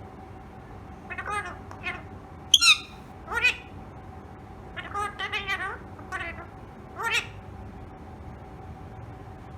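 Indian ringneck parrot giving a run of short, shrill, scratchy calls and squawks, the loudest and highest about two and a half seconds in. The calls stop a little past seven seconds. The owner takes the bird to be angry.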